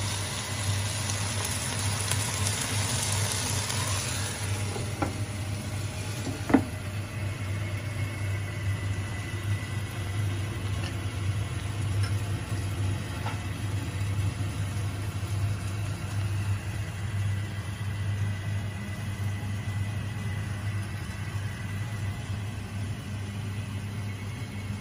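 Fish and onions sizzling in an electric skillet for the first few seconds, over a steady low hum that runs throughout. Two sharp knocks a few seconds in.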